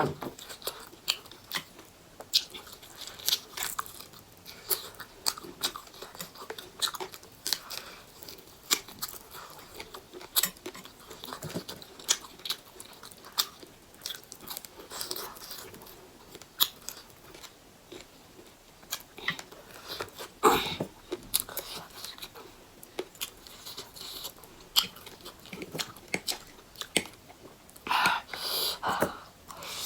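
A person chewing and biting food, with frequent short crunchy clicks. There is one louder knock about two-thirds of the way through and two longer noisy sounds, each about a second long, near the end.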